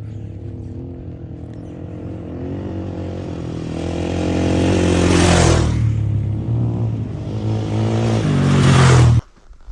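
Motocross bike engine running and revving, building twice in pitch and loudness as it accelerates. It cuts off suddenly near the end.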